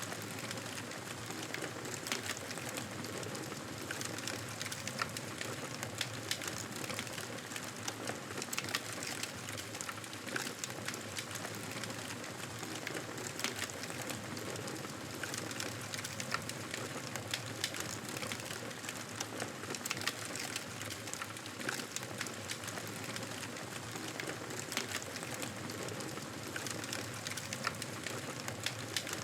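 Wood fire crackling in a fireplace: a steady hiss with frequent irregular sharp pops and snaps.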